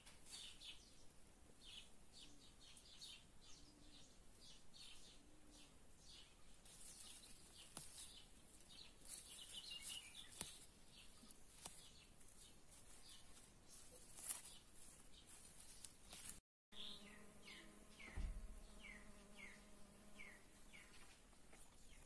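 Faint birdsong: scattered short high chirps, then a run of quick falling calls about two a second over the last few seconds. A soft low thump near the end.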